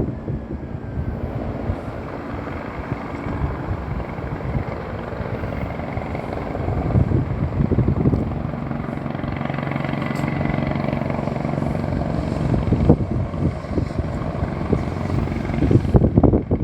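Firefighting helicopter flying, a steady engine-and-rotor drone that grows louder about halfway through, with wind buffeting the microphone.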